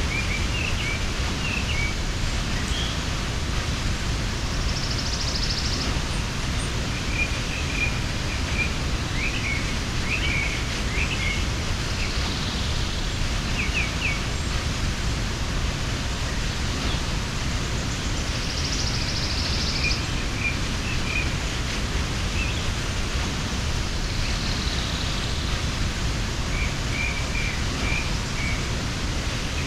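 Waterfall rushing steadily, with small birds chirping in short runs of quick notes every few seconds and a couple of higher buzzy trills about 5 and 19 seconds in.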